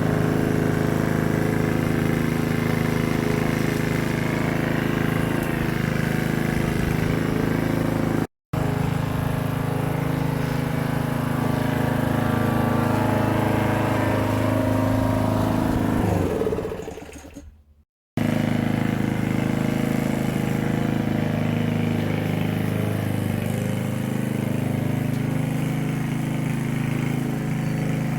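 Lawn mower engine running steadily while mowing grass. The sound drops out suddenly for a moment about a third of the way in, and later fades away into silence before coming back at the same steady pitch.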